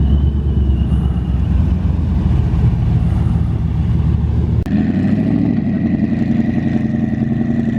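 Vehicle engine running with a heavy low rumble. Partway through the sound cuts abruptly to another engine sound, steady, with a thin high whine over it.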